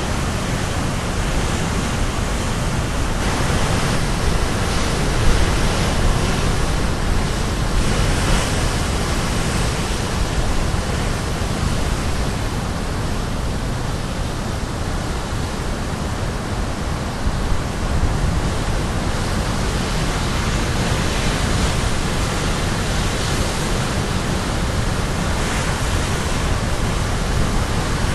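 Caribbean Sea surf breaking on the shore, a continuous heavy wash of waves that swells and eases every few seconds, with wind on the microphone.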